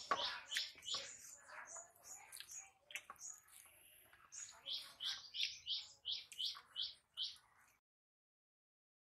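A small bird chirping in quick runs of short, high, downward chirps, about three or four a second. The sound cuts off suddenly near the end.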